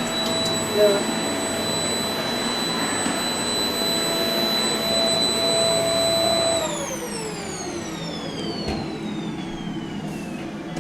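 Vacuum cleaner running with a steady high whine, then switched off about six and a half seconds in, its whine falling in pitch as the motor spins down. A brief louder sound cuts in about a second in.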